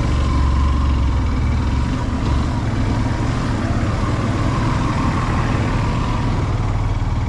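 Yamaha FZ-S motorcycle's single-cylinder engine running steadily at low speed as the bike crawls over a rough, rocky dirt track.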